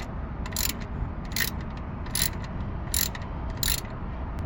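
A socket ratchet clicking in short bursts, about one every 0.8 seconds, as it turns the 15 mm oil drain plug.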